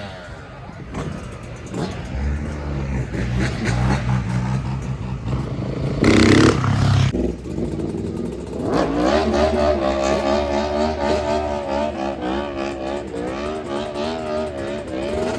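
Motorbike and quad engines running and revving. There is a loud burst about six seconds in, and from about nine seconds in engines are held at steady revs with a slightly wavering pitch.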